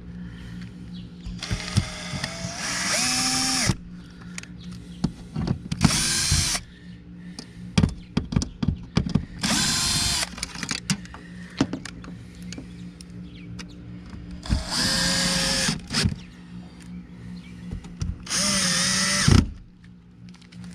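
Power drill running in five short bursts, each a second or two long, with small clicks and knocks between them.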